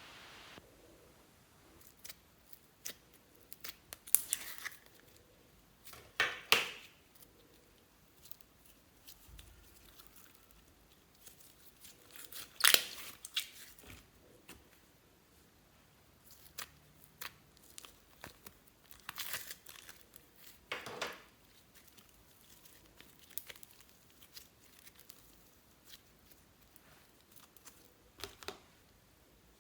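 Hands working slime and add-ins at close range: scattered crinkling, ripping and crackling handling noises with quiet gaps between them. A handful of louder rips stand out, the loudest about 13 seconds in.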